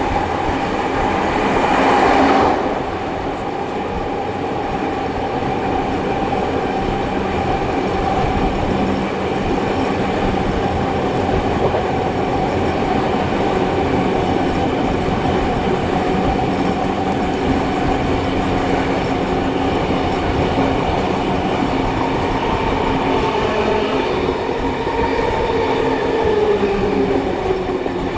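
Heritage train hauled by steam locomotives 3526 and 3265, heard riding behind them: a steady rumble of wheels on rail. A louder rush of noise fills the first two seconds or so, then drops away. A steady tone runs through, and a tone slides lower near the end.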